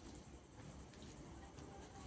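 Faint eating sounds from a meal of rice and tilapia curry: a few soft clicks and squishes over a low background hum.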